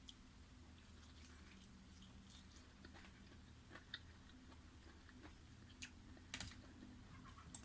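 Faint eating sounds: a few scattered soft clicks and crunches of chewing, over a low steady hum.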